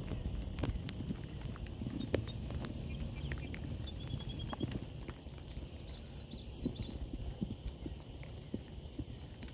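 Scattered light taps and knocks over a low rumble, with songbirds chirping: a short chirped phrase about three seconds in and a quick run of chirps in the middle.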